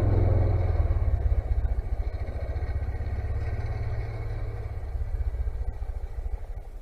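Engine running, then dropping back about a second in to a slower, pulsing idle that fades further near the end.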